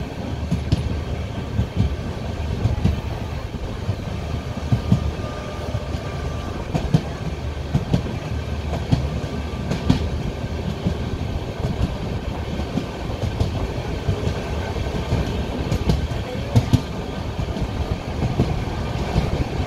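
Indian Railways express train rolling past on the track: a steady low rumble with irregular short knocks.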